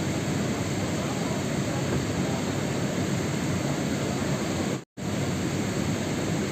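Steady, dense rain noise with no distinct drops or rhythm. It cuts to silence for a split second about five seconds in and then resumes unchanged.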